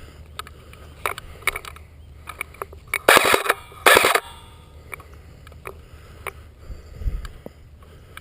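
Two short full-auto bursts from an airsoft electric rifle's gearbox, about three and four seconds in, the second shorter than the first, with scattered small clicks and rustling around them.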